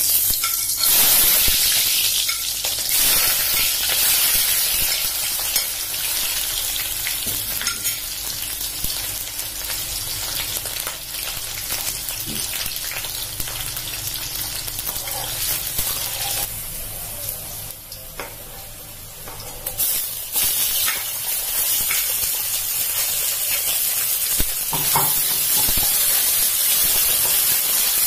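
Chopped onion, whole spices and ginger paste sizzling hard as they drop into hot oil in a steel wok, with a spatula stirring and scraping now and then. After a short lull about two-thirds of the way through, a second loud burst of sizzling as pieces of chicken go into the oil.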